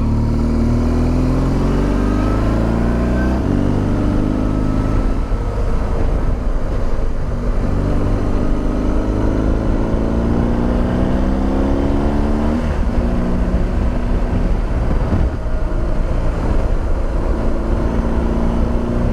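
BMW R1200GS boxer-twin engine pulling as the motorcycle rides on. Its pitch climbs and drops back at upshifts about three and a half and twelve and a half seconds in, then holds steady.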